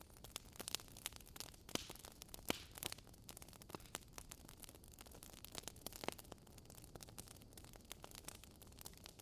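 Burning logs crackling in a fireplace: irregular sharp pops and snaps over a faint low hiss, the loudest pop about two and a half seconds in.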